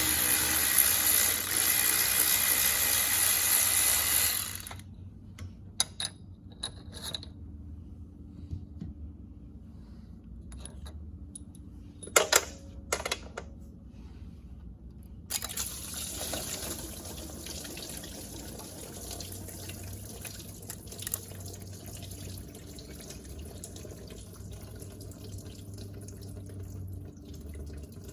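A power tool runs for about five seconds, loosening the last water-pump bolt on the tractor engine, followed by scattered clinks of tools and one sharp knock. About halfway through, water starts running and dripping out of the engine where the pump is being taken off, and keeps on steadily.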